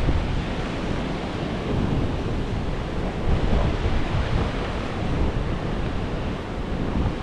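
Sea surf washing steadily, with wind rumbling and buffeting on the microphone.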